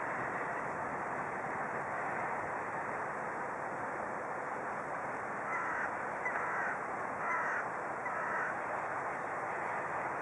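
A bird gives four short calls in quick succession about halfway through, over a steady rushing background noise.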